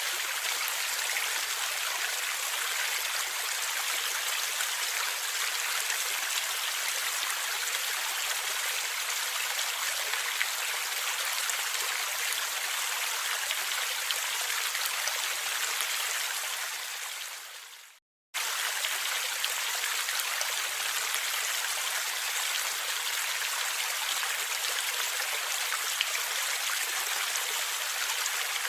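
Stream water gurgling and splashing steadily over rocks, with small droplet ticks. About 17 seconds in it fades out to a moment of total silence, then starts again abruptly at full level, like a loop point in the recording.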